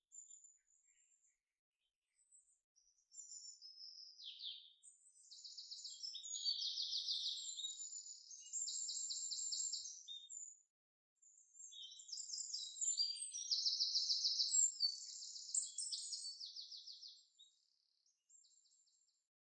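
A songbird singing two long, high-pitched bouts of quick chirps and rapid trills, with a short break between them.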